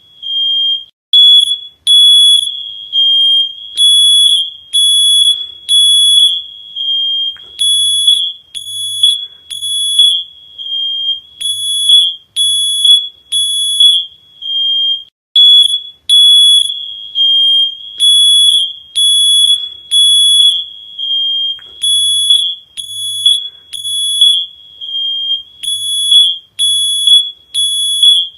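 Smoke alarm sounding: loud, high-pitched beeps in groups of three, with a short pause between groups. This is the temporal-three fire-alarm pattern.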